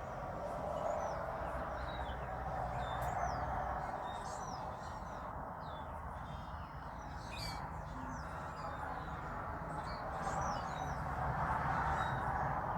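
Small songbirds chirping and twittering in many short, quick notes scattered throughout, over a steady background rush of outdoor noise.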